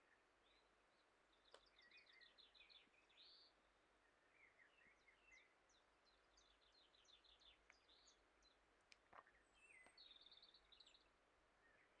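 Near silence with faint birdsong: several short phrases of quick, high, repeated chirps, with a few faint clicks.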